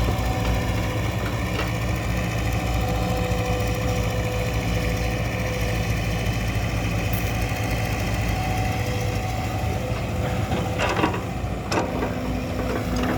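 Heavy diesel engine running steadily, with a couple of sharp clanks about eleven seconds in.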